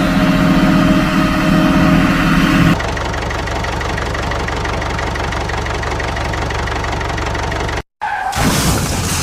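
Vehicle engine idling steadily, in spliced-together pieces: one engine hum changes abruptly to a lower, even run a few seconds in, then cuts out briefly near the end before a different engine sound starts.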